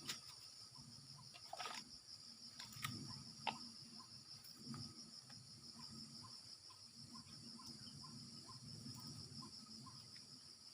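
Steady high-pitched chorus of crickets or other insects, with a few sharp clicks in the first few seconds and a faint short chirp repeating about three times a second through the second half.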